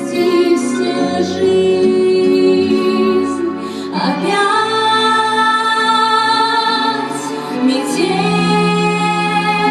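Female voice singing a song over an instrumental backing track, holding long notes with vibrato. New sung phrases begin about four seconds in and again about eight seconds in.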